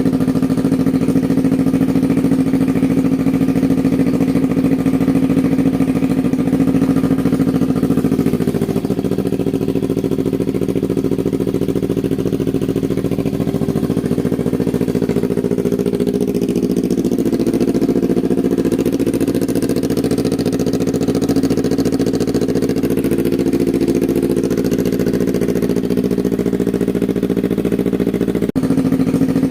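Kawasaki Ninja 250 FI parallel-twin engine idling steadily through an aftermarket Austin Racing replica exhaust, its pitch shifting slightly about eight seconds in.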